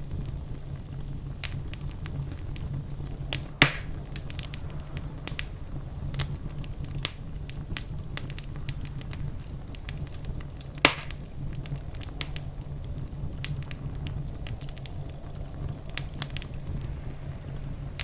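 Fireplace fire crackling, with a steady stream of small clicks over a low, steady rumble. Two louder sharp pops stand out, one a few seconds in and another about eleven seconds in.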